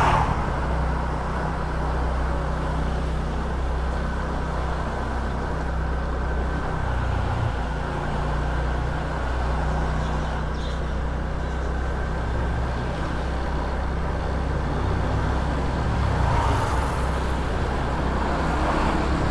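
Small motor scooter's engine running at low riding speed, a steady low drone under wind and road noise, its pitch shifting briefly about halfway through and again near the end.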